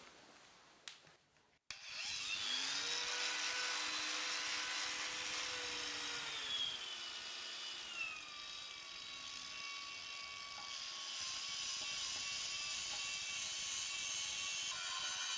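A power tool starts abruptly about two seconds in and runs on as a harsh, grinding noise. Whining tones in it drop in pitch partway through.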